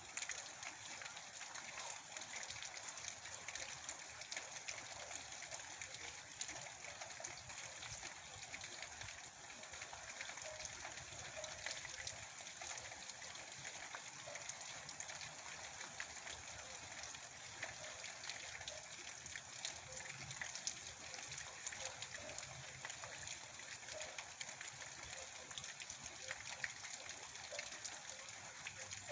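Steady rain falling, a constant hiss of many small drop hits.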